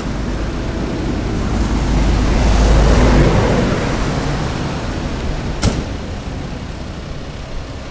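Street traffic rumble swelling as a vehicle passes, loudest about three seconds in, then fading. A little past halfway, the fire engine's cab door slams shut with one sharp knock.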